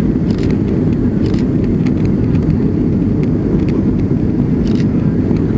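Steady rumble of an airliner in flight, heard from inside the passenger cabin: engine and airflow noise, with a few faint clicks.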